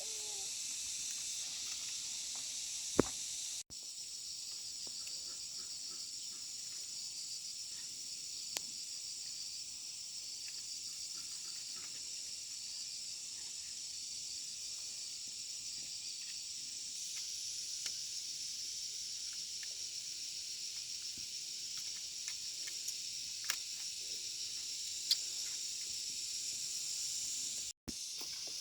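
Steady high-pitched shrilling of insects, pulsing faintly, with a few sharp clicks, the loudest about three seconds in.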